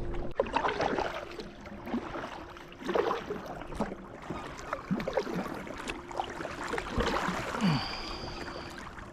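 Water splashing and sloshing around a fishing kayak, in uneven surges a second or two apart with drips and gurgles between them.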